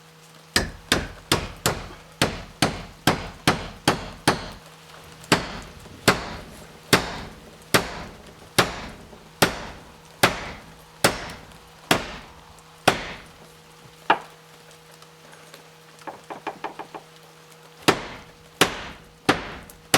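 Hammer blows: a quick run of strokes, about three a second, then slower single blows roughly one a second. After a pause come a flurry of light taps and a few last blows.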